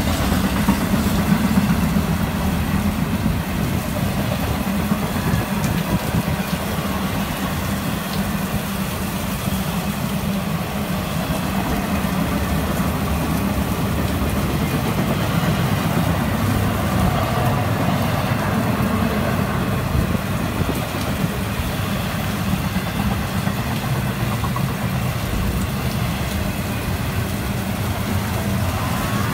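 Freight train's double-stack container cars rolling steadily past on the rails, a continuous low rumble of wheels on track, in falling rain.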